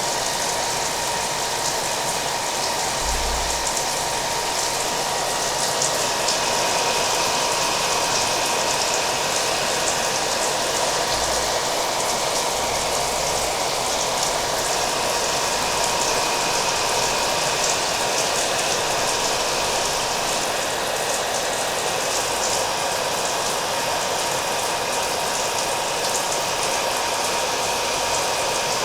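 Hair dryer running steadily with a constant whine, mixed with the even patter of falling rain.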